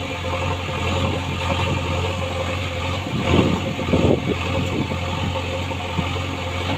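Heavy diesel engine running steadily, with a louder, rougher swell about three to four seconds in.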